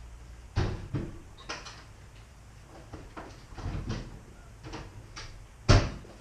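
A series of irregular knocks and clunks, like a door being handled, with the loudest bang near the end, like a door being shut.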